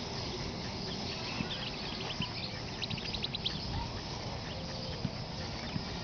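Steady outdoor background hiss. Near the middle comes a small bird's call: two quick runs of short, high chirps.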